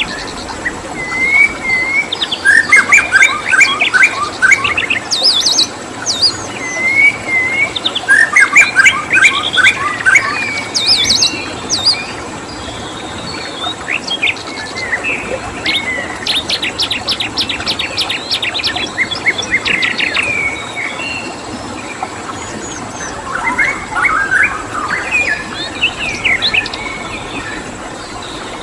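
Songbirds singing in fast, chattering phrases that come in bursts, one of them a rapid run of repeated high notes, over a steady background hiss.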